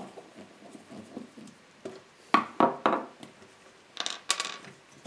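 Hard objects being handled on a workbench: three sharp clacks in quick succession with a short ring, then a couple of light, bright clinks near the end.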